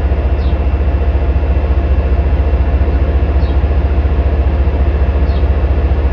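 Diesel engine of an MPI HSP46 locomotive running steadily, a loud, fast, even low throb.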